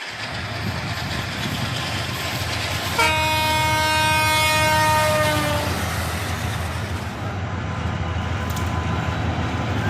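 Train horn sounds one long blast about three seconds in, its pitch sagging slightly as it ends, over the steady low rumble of a passenger train pulling out of the station.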